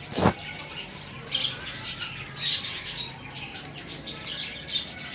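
Bird squawks and short chirps, scattered and repeated, with one sharp knock about a quarter second in that is the loudest sound.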